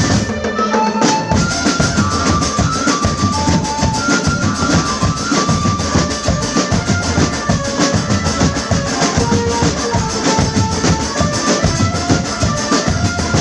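Marching drum band playing: a fast, dense beat on bass and snare drums with a melody line of held notes over it. The low drums drop out for about a second near the start, then come back in.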